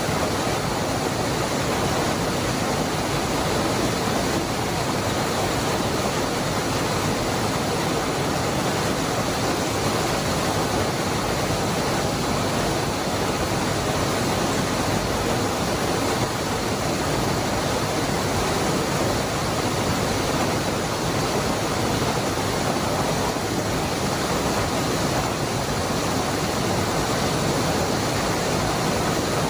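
Waterfall: the Cascada del Hervidero's water falling in a steady, unbroken rush of noise with no changes.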